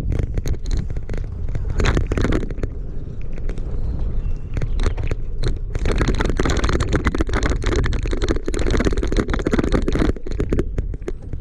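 Riding noise from a bicycle: wind rumbling on the microphone with dense crackling and scraping from the tyres and bike, heaviest from about six to ten seconds in.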